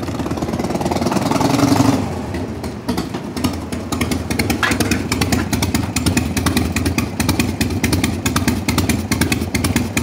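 Harley-Davidson Dyna Low Rider's Evolution V-twin engine revving up over about two seconds, then dropping back to idle with an uneven, loping beat.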